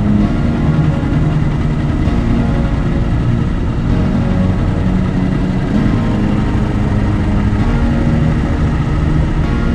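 Harley-Davidson V-twin motorcycle engine running steadily under way, its deep low note changing pitch a little every second or so.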